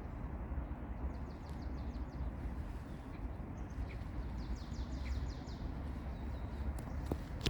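A small bird sings two quick high trills, the second longer, over a steady low outdoor rumble.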